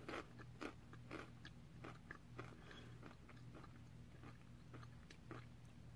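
Faint crunching of a crispy coconut chip being chewed with the mouth closed: irregular crisp crunches about two or three a second, getting sparser toward the end, over a low steady hum.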